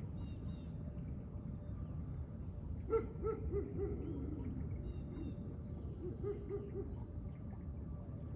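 A dog barking behind a window, muffled. One sharp bark about three seconds in is followed by a quick string of short barks, and another short string comes near the end. Small birds chirp faintly now and then.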